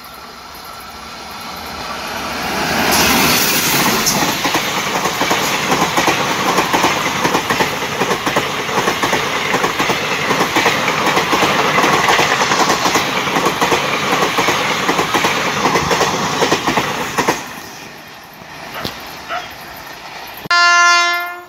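Passenger train coaches running past close at speed: a continuous rumble with rapid clickety-clack of wheels over the rail joints, building over the first few seconds and cutting off abruptly about 17 seconds in. Near the end, one short, loud blast of a train horn.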